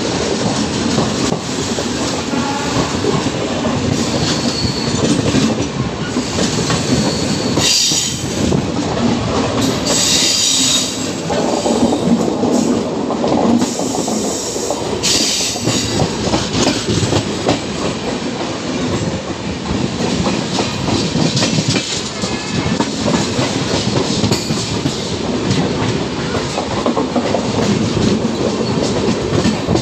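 A moving passenger train heard from an open coach doorway, running alongside another train on the next track: a steady rumble with a dense clatter of wheels over rail joints. A few short, high-pitched hissing or squealing bursts stand out in the first half.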